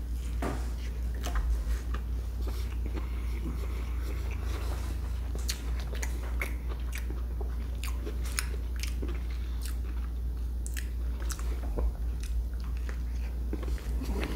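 A man biting into and chewing a crispy fried chicken sandwich, with irregular sharp crunches from the breading throughout. A steady low hum lies underneath.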